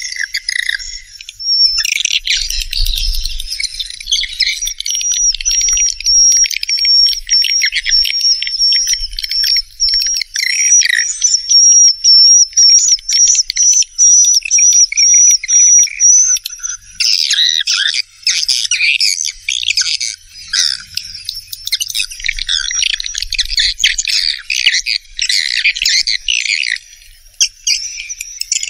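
Swiftlet call recording played as a lure: a dense, rapid, loud twittering and chirping of many swiftlets. A high, thin, steady tone runs above the calls through the first half and stops about 16 seconds in.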